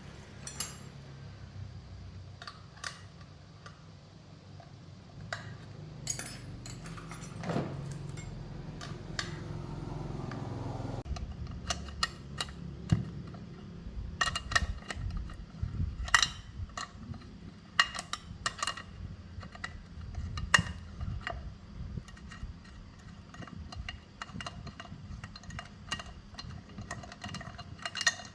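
Metal tools and parts clinking and knocking in irregular bursts, busier in the second half, over a low steady hum.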